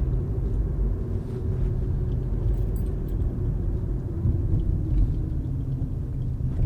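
Road rumble inside the cabin of a 2010 Toyota Corolla driving over a bumpy surface, with a few faint clunks and rattles that the driver places in the front left suspension.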